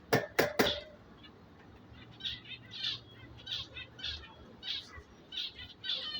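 Three sharp clicks at the start, then lovebirds chirping in a run of short, high calls from about two seconds in, repeating roughly every half second.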